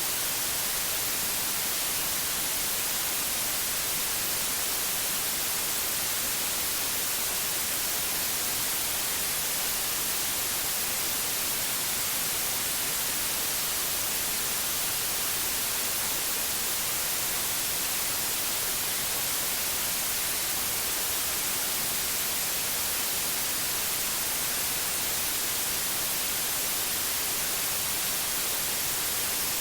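Electronically generated white noise: a steady, unchanging hiss, strongest in the highs.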